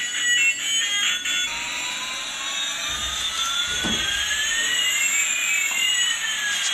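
Battery-operated toy aeroplane's electronic jet sound effect: a tune ends about a second and a half in, then a steady hiss with a whine gliding slowly up in pitch while a second whine glides down.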